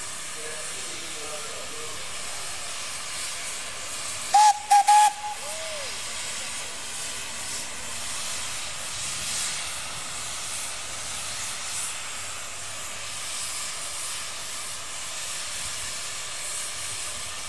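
Steam whistle sounding three short, quick toots about four and a half seconds in, followed by a fainter, lower whistle note, over a steady hiss of escaping steam.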